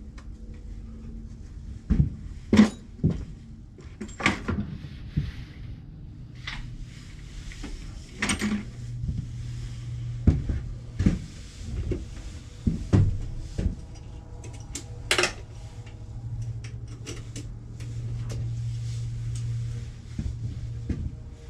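Wooden knocks and clatter as pine picket birdhouse parts are handled and fitted together on the bench, in irregular single strikes. A low steady hum comes in about eight seconds in.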